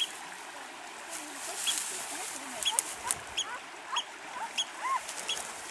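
Birds calling in a quick series of short, repeated chirps over a steady background hiss, with a few sharp clicks.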